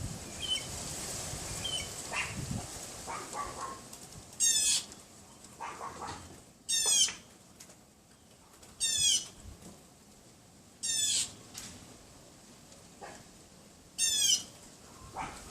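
Pomeranian yapping: five sharp, high-pitched yaps about two seconds apart, with fainter yaps in between.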